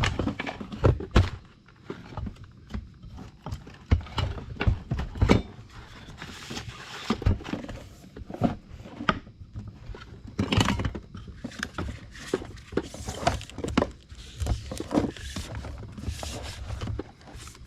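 Irregular knocks and clunks with stretches of rubbing in between: a heavy welding ground cable and heat-shrink tubing being handled and worked on a table.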